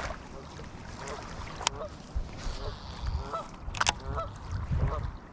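A flock of geese honking: a run of repeated honks starts about halfway through and keeps going. Two sharp clicks come earlier.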